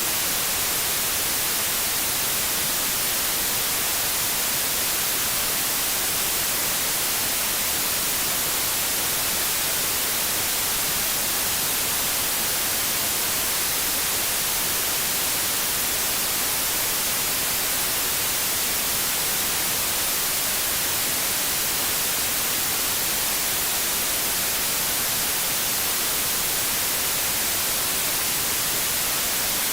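Steady, unbroken TV static hiss, the white noise of an untuned analogue television, heaviest in the treble.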